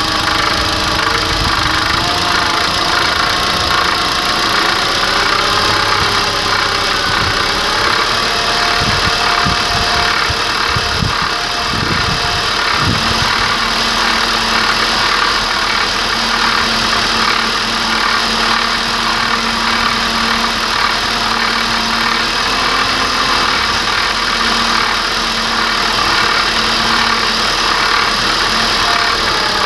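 Chery Jaggi (QQ6) Acteco petrol engine running steadily with a knock in it whose cause the owner cannot identify.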